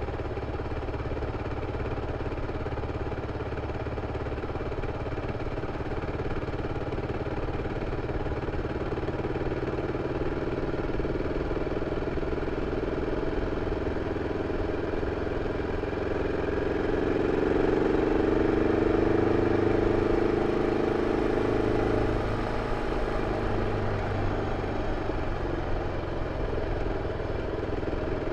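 BMW F 650 CS single-cylinder engine running through its original exhaust, steady at first, growing louder for several seconds about two-thirds of the way through, then easing back.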